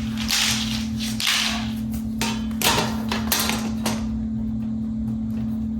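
Front wire grill of an Aerospeed BX100 box fan being handled and fitted onto the fan's housing: about five short rattling scrapes in the first four seconds, over a steady low hum.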